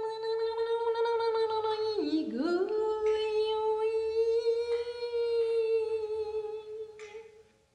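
A woman's unaccompanied voice holding one long high note. About two seconds in it swoops sharply down and slides back up, then holds the note again and fades out near the end.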